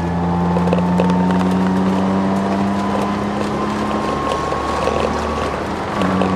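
Ford Sierra XR4x4 twin-turbo under power, heard from inside the cabin: a steady engine note with a high whine that rises slowly in pitch, which the owner puts down to the solid diff mount and poly bushes. Light rattles sound throughout.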